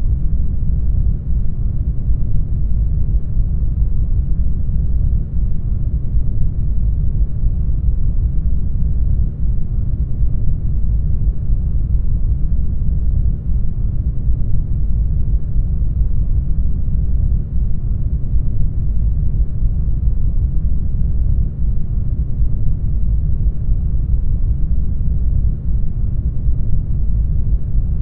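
Steady brown noise: an even, deep rumbling hiss, strongest in the bass and fading toward the treble, with no changes or events.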